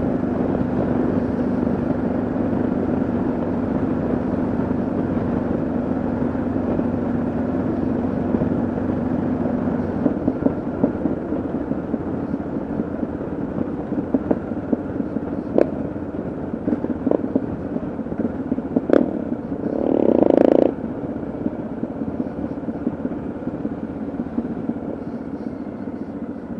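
Yamaha XT660Z Ténéré's single-cylinder engine running under way, with road and wind noise. The engine's steady note falls away after about ten seconds, then come scattered knocks and a short, louder rush of noise about twenty seconds in.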